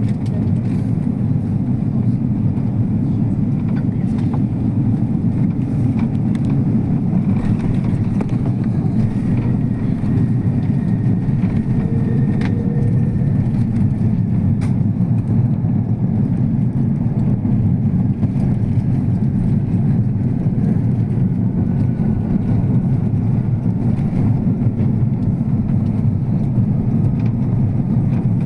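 Airliner cabin noise: a steady, loud low rumble of engines and airflow, with a faint high whine slowly falling in pitch.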